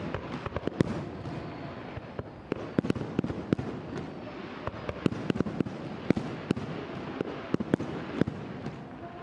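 Fireworks display: a dense, irregular run of sharp shell bursts and cracks, several a second, over a continuous wash of noise.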